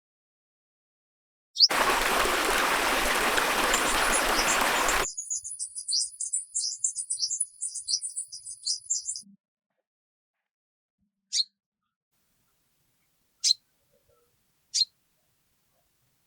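A loud rushing noise for about three seconds, starting and stopping abruptly, followed by a high rapid bird song for about four seconds. Then come a few single short bird chirps spaced a second or two apart.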